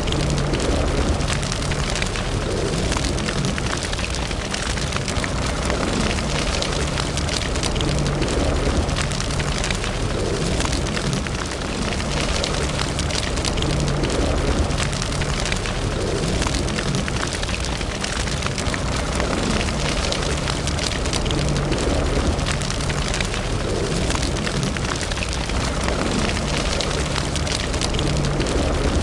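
Wood fire burning in a fireplace: a steady low rumble of flames with constant fine crackling.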